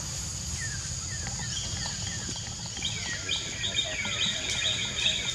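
Birds chirping outdoors, first a run of short falling calls, then a fast high trill from about three seconds in. Under the calls run a steady high-pitched drone and a low rumble.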